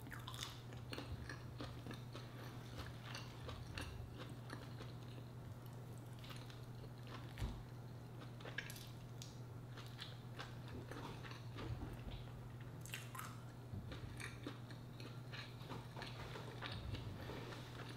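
A person chewing food close to the microphone, with soft wet mouth clicks and small crunches scattered through, over a steady low hum.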